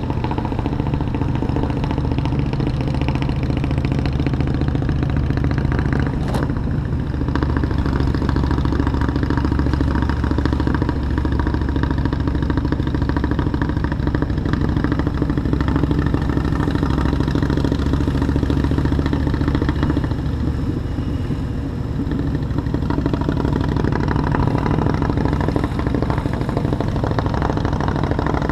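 Motorcycle engine running steadily while riding through city traffic, with one sharp click about six seconds in.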